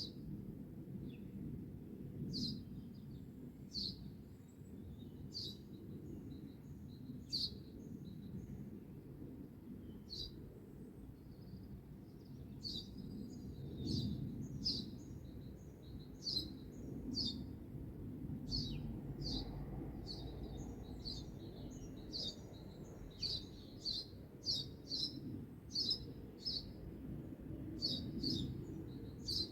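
Small songbirds chirping in short, high notes, sparse at first and coming thick and fast in the second half, over a steady low rumble.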